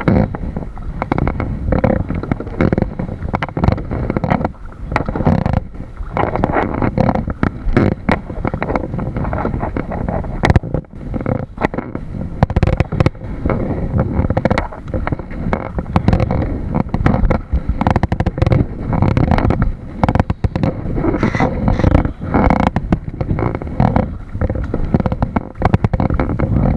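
Wind buffeting the camera's microphone on a kayak on open water: a loud, unsteady rumble that flutters from moment to moment.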